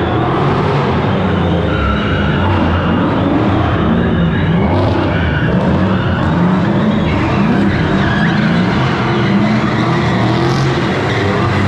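V8 drift cars running hard, their engines revving up and down over and over, with tyres skidding and squealing.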